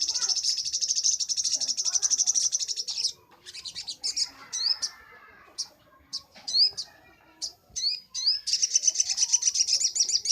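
Little spiderhunter (sogok ontong) singing. A rapid, high, chattering trill runs for about three seconds, then come a few short, sharp rising notes, and the fast trill starts again about two seconds before the end.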